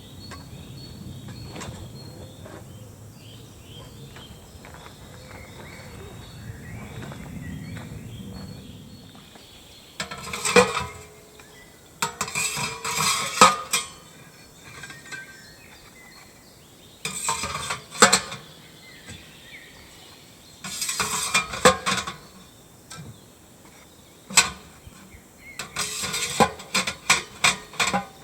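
Metal camping gear clattering and clinking in short bursts as it is handled and packed away, starting about ten seconds in after a stretch of quiet outdoor background; several sharp clanks stand out among the rattling, with a quick run of clinks near the end.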